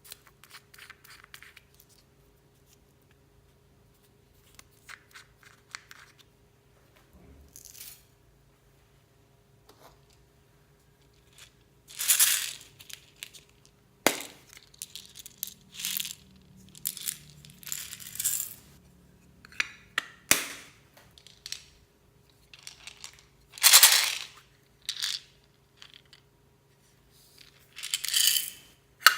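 Clear slime mixed with beads and floam being squished and stretched by hand: irregular wet crackles, pops and clicking squelches, with several louder bursts in the second half.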